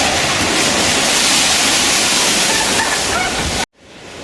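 Loud, steady rush of storm water, a dense hiss-like roar. It cuts off suddenly about three and a half seconds in, and after a moment's silence a new rush fades in.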